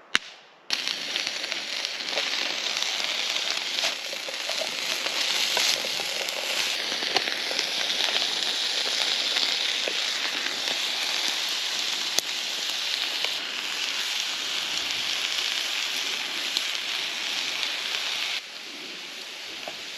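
Steak and beef strips with garlic frying in a pan over a campfire: a dense, steady sizzle with scattered pops and crackles. It starts abruptly just under a second in and drops to a quieter hiss near the end.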